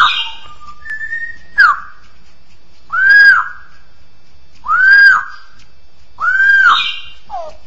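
Straw-headed bulbul (cucak rowo) singing: loud, clear whistled notes that each rise and fall in pitch, about four long ones spaced a second or two apart, with a few shorter sliding notes between them.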